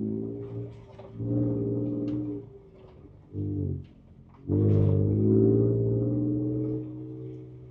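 Ford Ranger Raptor's twin-turbo V6 heard from inside the cab, pulling in bursts of throttle and dropping back between them: once about a second in, briefly around three and a half seconds, then longer and louder from about four and a half seconds. Faint knocks and rattles from the cab come through over it.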